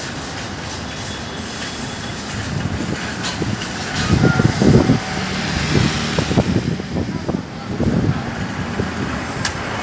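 Steady outdoor roar with wind buffeting the microphone in irregular gusts, heaviest from about four seconds in.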